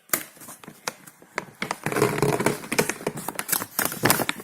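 Rapid, irregular clicks and knocks from a dishwasher being handled by hand.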